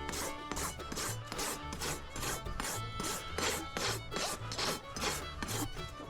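Farrier's rasp scraping in repeated strokes across a horse's hoof wall as the flare is dressed back, over background music with a steady bass beat.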